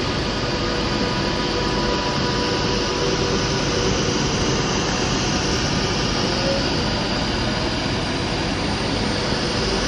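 Virgin Trains Class 390 Pendolino electric train pulling out of the station, a steady rumble and hum with faint whining tones from the traction equipment.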